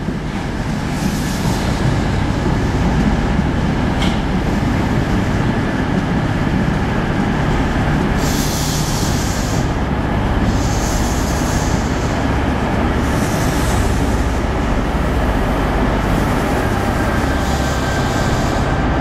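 First Great Western passenger train rolling along the station platform with a steady low rumble. Separate bursts of high hissing or squealing come and go four times in the second half.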